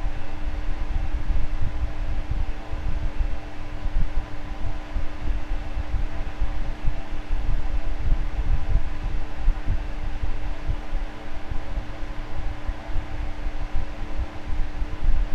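Electric fan running steadily: a continuous rushing hum, strongest in the low end, with a steady tone from the motor.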